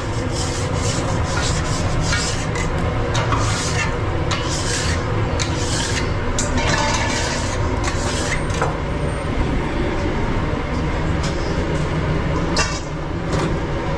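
Food truck kitchen work: a series of short scraping, rubbing strokes over a steady low rumble of running kitchen equipment. The strokes come in a quick run for most of the first nine seconds, with one more near the end.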